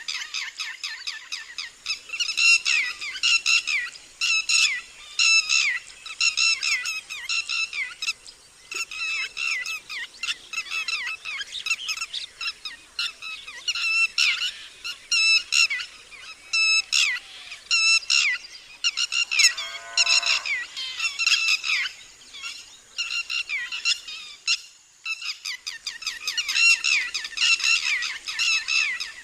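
Red-wattled lapwing giving its loud alarm call, the 'did-he-do-it' phrase: sharp, shrill notes repeated in quick runs with short breaks, and one longer pause near the end.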